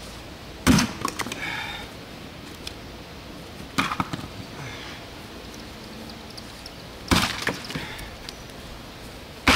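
Pecan wood being split by hand: three sharp chopping strikes about three seconds apart, each followed by a short clatter of pieces falling.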